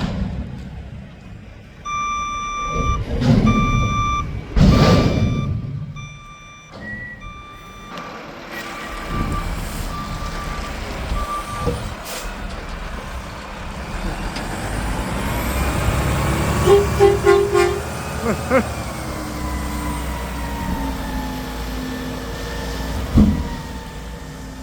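Garbage truck's reversing beeper sounding about once a second, fading out after about ten seconds, with two heavy thumps a few seconds in; then the truck's engine runs and builds steadily.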